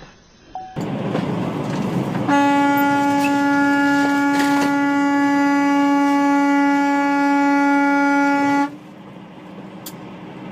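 A vehicle horn held in one steady, unwavering blast for about six seconds over road noise, then cut off abruptly.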